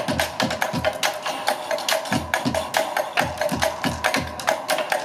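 Live percussion show: drummers playing a fast rhythm of sharp, clacking strikes over deep drum hits.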